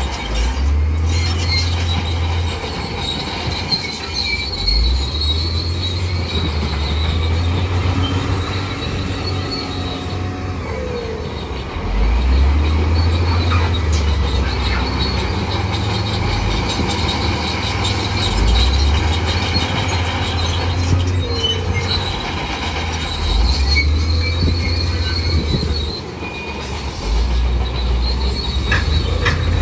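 Bulldozer working in mud: its diesel engine rumbling under load, swelling and easing every few seconds, with the high squeal of its steel crawler tracks over it.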